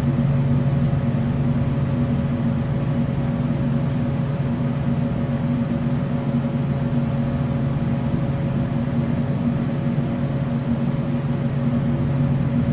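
A steady mechanical hum with a low drone, as from an electric machine running in the shop, holding even throughout.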